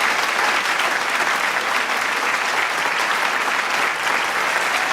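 Large crowd applauding: dense, steady clapping from many hands, with cheering voices mixed in underneath.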